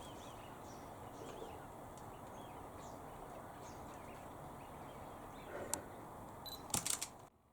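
Outdoor ambience: a steady wash of background noise with faint, scattered bird chirps. A few sharp clicks come near the end, and the sound cuts off abruptly just before the end.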